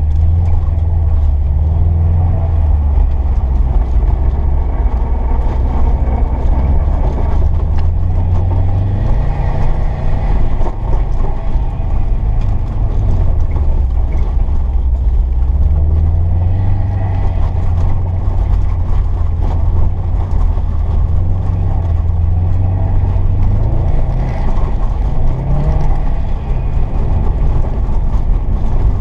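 Cobb Stage 2+ tuned 2011 Subaru WRX STI's turbocharged flat-four engine, driven hard on ice. Its pitch rises and falls several times as it accelerates out of corners and lifts for the next ones.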